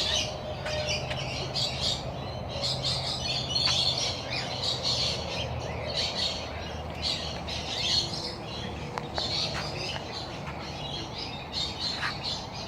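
A large flock of birds chattering and squawking without a break, many short high calls overlapping. A low steady hum sits underneath for about the first half.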